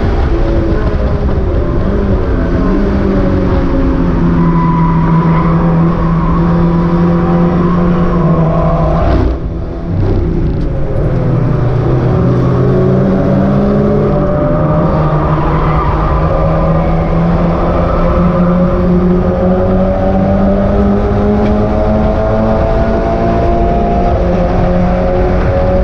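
Mazda MX-5 race car's four-cylinder engine running hard, its pitch climbing slowly as it pulls, with a brief break in power about nine seconds in before it pulls again.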